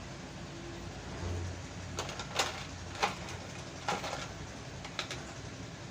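Pedestal fan motor parts being handled and fitted together: five sharp clicks and knocks, starting about two seconds in.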